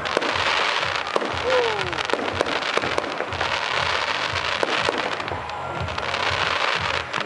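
Aerial fireworks: a dense, continuous crackle from glittering star bursts, with sharp pops scattered throughout.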